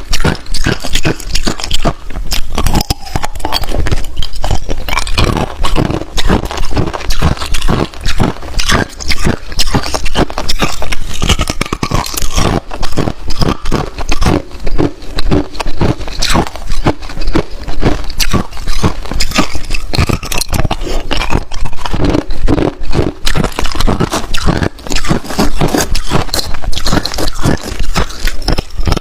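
Hard clear ice being bitten and chewed, a dense, unbroken run of sharp cracks and crunches.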